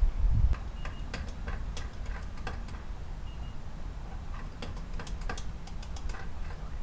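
Scattered light clicks and taps of a cricket bait mold and tools being handled, coming in two clusters, over a low steady rumble. A duller thump comes right at the start.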